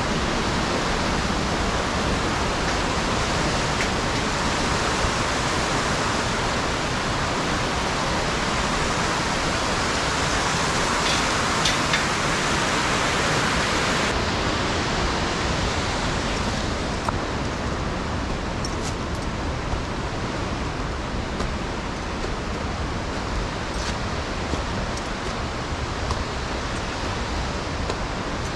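Steady rush of falling water from the Abe Great Falls and its mountain stream. The sound turns a little quieter and duller about halfway through.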